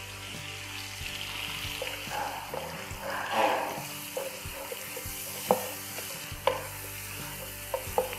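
Tomatoes, whole spices and ginger-garlic paste sizzling in oil in a wok while a wooden spatula stirs them. A few sharp clicks of the spatula against the pan come in the second half.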